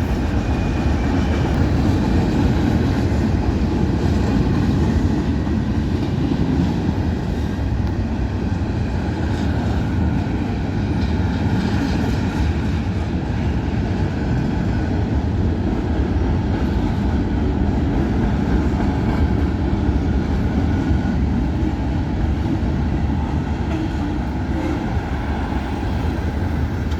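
A freight train rolling past at close range: a steady rumble of steel wheels on the rails that goes on without a break.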